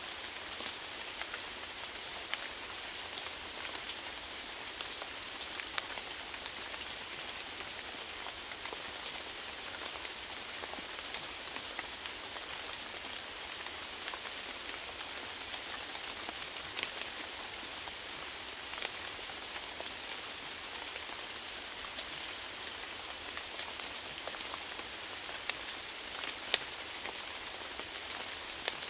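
Steady rainfall, an even hiss sprinkled with the sharp ticks of individual drops hitting a surface.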